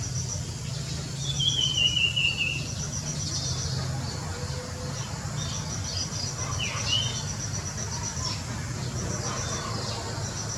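Bird and insect sounds. Insects chirp in runs of rapid high pulses, and a bird gives one clear falling whistle about a second in and a short call near the middle, over a low steady hum.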